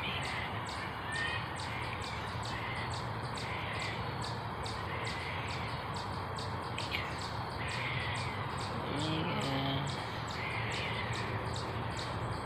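Birds calling, a short call about every second, over steady low background noise.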